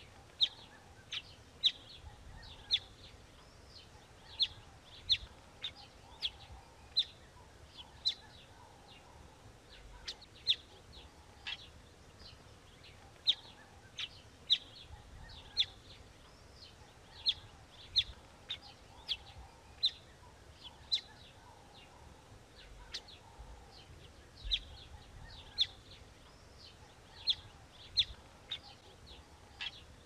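A small songbird giving short, sharp chirps, about one or two a second at irregular spacing, over softer, lower bird calls in the background.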